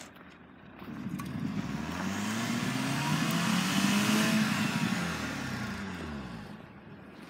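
2010 Volkswagen GTI's turbocharged 2.0-litre four-cylinder revving up and back down over about five seconds as its front wheels spin in deep snow, with a hiss of spinning tyres and thrown snow rising and falling with the revs.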